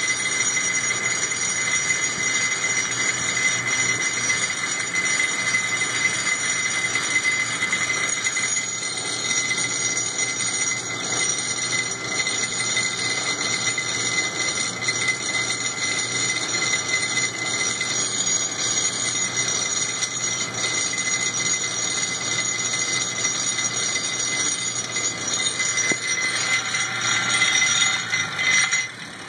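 Mini rock crusher running steadily as it grinds charcoal into powder, a continuous mechanical grinding with high metallic ringing tones over it. It stops suddenly near the end.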